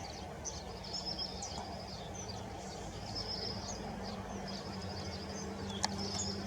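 Birds chirping in many short, high notes over a steady background of outdoor noise. There is a sharp click near the end, and a low steady hum comes in about five seconds in.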